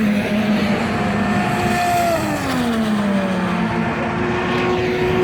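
IndyCar race cars' twin-turbo V6 engines going by at speed, loud, one car after another, each engine note holding and then dropping in pitch as the car passes.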